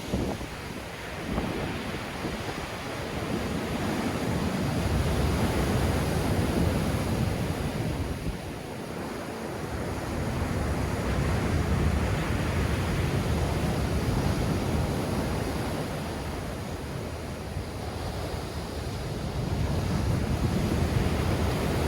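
Black Sea waves breaking in strong wind, with wind buffeting the microphone. The surf wash is heaviest in its low rumble and rises and falls in three long surges.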